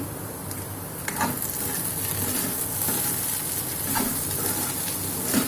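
Sliced okra sizzling in oil in a kadhai while a spatula stirs it, with a few scrapes of the spatula against the pan: about a second in, about four seconds in and near the end.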